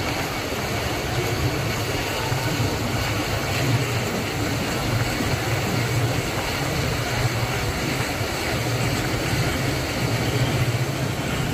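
Steady running noise of a passenger train heard from inside a third-class coach: an even rumble with a constant low hum.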